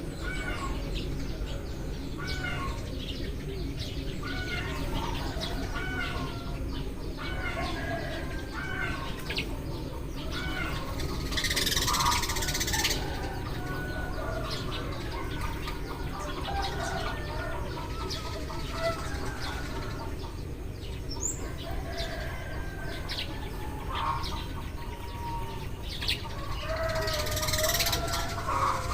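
Eurasian tree sparrows chirping, many short overlapping chirps from several birds at once over a steady low rumble. Twice, near the middle and near the end, a brief louder rushing noise lasting about a second cuts through.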